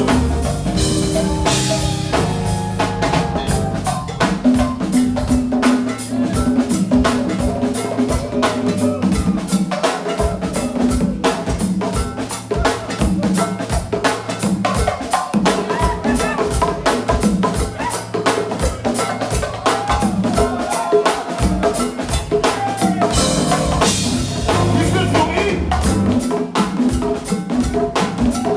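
Live band playing an instrumental groove driven by a drum kit, with kick, snare and rimshots on a steady beat over a bass line, and no singing.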